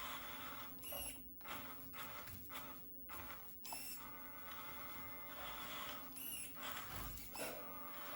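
Faint whine of remote-control cars' small electric motors, rising and falling in pitch three times over a steady hiss.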